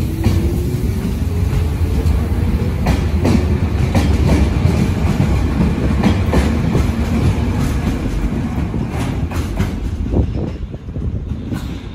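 JR 205 series electric commuter train running past close by as it pulls away, its motors whining up in pitch in the first couple of seconds and its wheels clacking over rail joints and points. The rumble drops off near the end as the train moves away.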